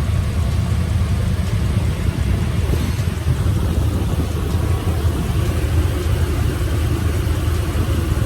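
A steady low rumble with a faint hiss above it, unbroken throughout.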